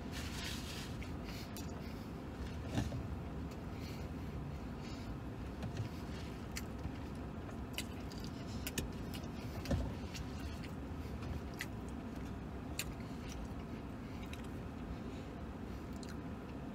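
A man chewing a mouthful of sandwich, with scattered soft clicks and smacks, over a steady low rumble inside a truck cab.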